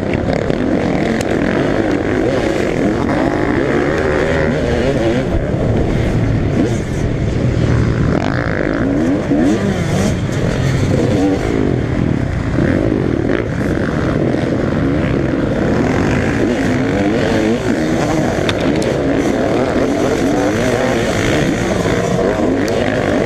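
Several motocross bikes racing, their engines revving up and down in many overlapping, constantly shifting pitches.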